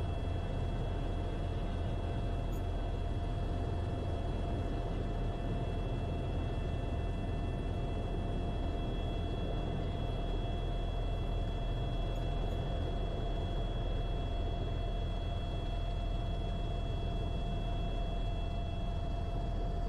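Airbus H130 T2 helicopter, its Arriel turboshaft engine and rotor running steadily during takeoff: a constant deep rumble with a steady high whine over it.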